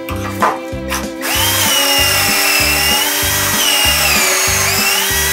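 Milwaukee cordless drill boring into a board through a pocket-hole jig. It starts about a second in, and its motor whine dips and rises in pitch as the bit loads up and frees. Background music plays underneath.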